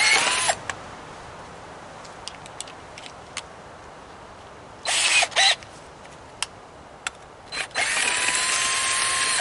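Power drill fitted with a socket, spinning in short bursts: once at the start, twice about five seconds in, then a steady run of about a second and a half to the end. The motor's whine rises as it spins up, then holds steady while it turns the bolts of an air compressor being taken apart.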